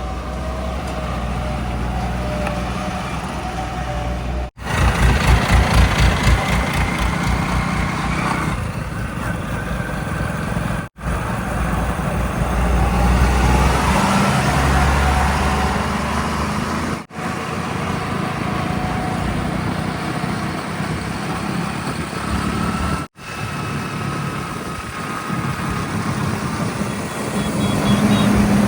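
Heavy diesel vehicle engines running, with the sound cut off sharply every six seconds or so as one short clip gives way to the next.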